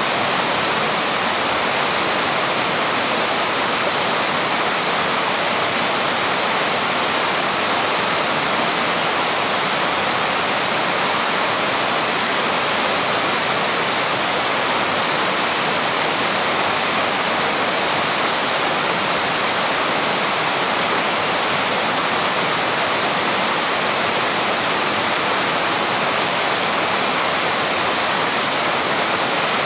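Small waterfall and stream cascading over rocks: a steady, unbroken rush of water.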